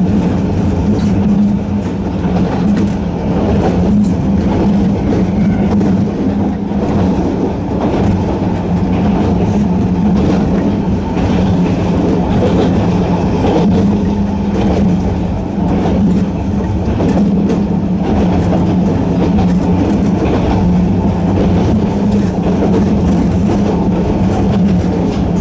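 Narrow-gauge Hokusei Line electric train running at a steady speed, with a constant low hum from its nose-suspended traction motors over the rumble and frequent clicks of wheels on rail.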